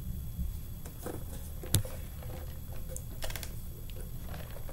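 Close-up eating sounds: chewing a bite of a spicy chicken sandwich, with scattered sharp mouth clicks, the loudest about two seconds in, over a steady low hum.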